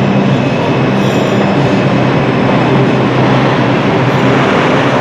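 Train running on the rails: a loud, steady rumble with a low hum underneath.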